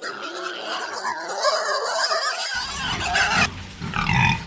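Several pigs squealing and grunting at once, many overlapping calls. Deeper grunting joins about two and a half seconds in, and the sound cuts off abruptly at the end.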